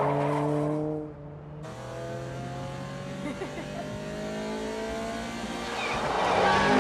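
Sports car engine revving and accelerating hard. A loud engine note cuts off about a second in, then a long, slowly rising engine note builds as the car speeds up. Near the end a louder engine comes in and falls in pitch as a car passes.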